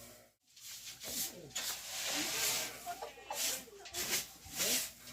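Dry straw and grass rustling in a series of hissing bursts as it is tossed and handled as fodder, with faint farm-animal calls between them.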